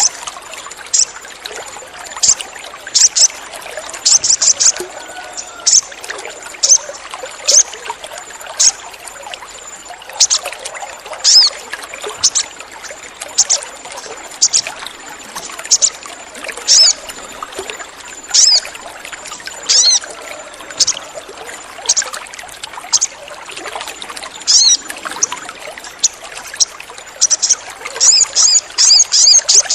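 Sogon bird calling in short, high, sharp chirps about once a second, breaking into rapid chattering runs at the start and again near the end. Steady trickling water runs underneath.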